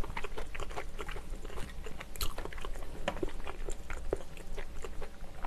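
Close-miked chewing of a mouthful of braised kimchi stew (kimchijjim): a run of short wet smacks and crunches in the mouth, with a sharper crunch about two seconds in.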